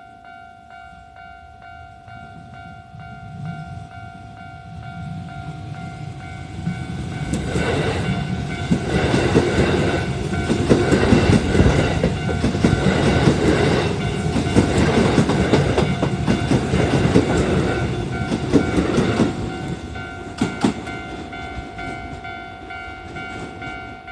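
Japanese level crossing bell ringing with a steady, repeating tone while a Kintetsu 1026 series electric train passes. The train grows louder, clatters by over the rail joints for about twelve seconds, then fades, with one sharp knock just after it has gone, while the bell keeps ringing.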